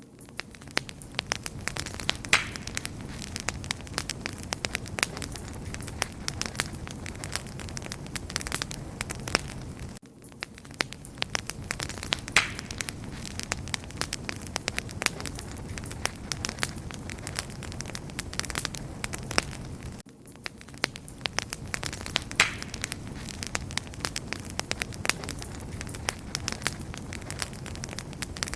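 Wood fire crackling steadily: a low rumble of flames with dense sharp pops and snaps. The same ten-second stretch of crackles repeats, with a brief dip each time it restarts.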